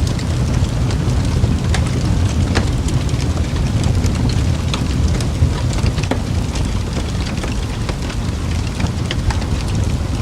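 Wood fire crackling in a fireplace: frequent sharp pops and snaps, several a second and uneven in strength, over a steady low rumble of the flames.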